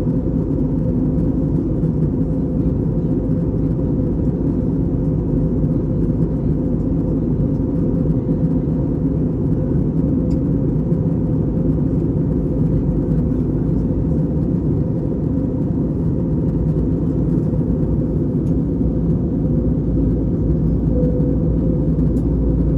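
Steady cabin noise of an Airbus A320-family jet airliner in flight: the deep, even rumble of the engines and airflow past the fuselage, heard from a passenger seat.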